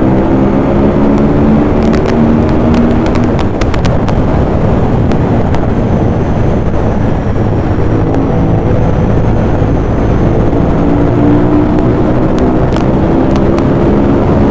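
Ducati Monster 821's L-twin engine pulling hard at highway speed, its pitch climbing steadily in the first few seconds. Then comes a stretch where wind and road noise cover it, and it climbs again through the second half.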